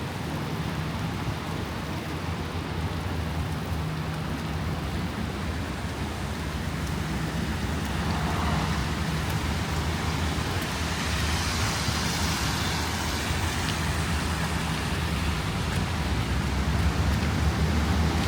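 City street traffic: a steady low engine hum from running vehicles under a wash of road noise, with a hiss that builds from about eight seconds in.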